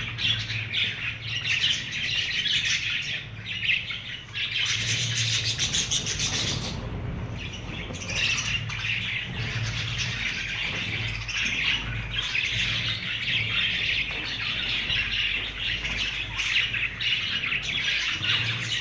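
A colony of budgerigars chirping and chattering continuously, many birds at once, with a low steady hum underneath.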